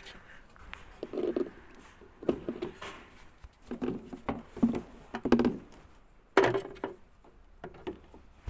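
Irregular plastic knocks, clicks and clatters as parts of a washing machine's housing are worked loose and removed by hand.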